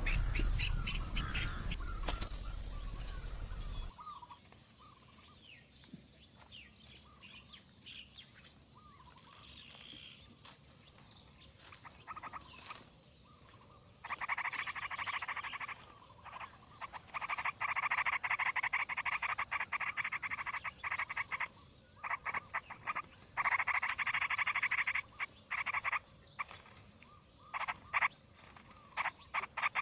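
Frogs calling in repeated rapid pulsed trills, each lasting a second or two, from about halfway through. The first four seconds hold a louder low rumble with high chirps over it.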